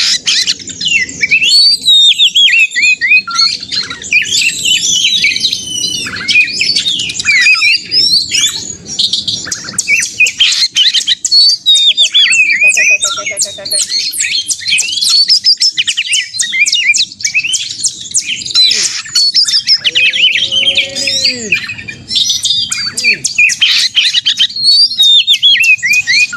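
Oriental magpie-robin (kacer) singing in 'gacor narung' mode, the loud, agitated challenge song of a bird roused to fight. A dense, unbroken run of quick whistles, trills and harsh chatter, with a few lower calls about halfway through and again near the end.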